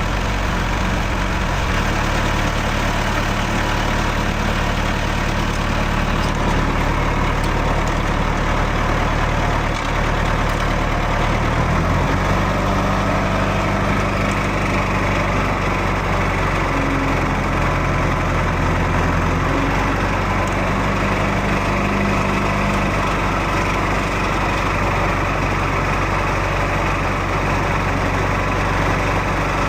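Tractor engine running steadily, its note shifting about twelve seconds in and again about twenty seconds in.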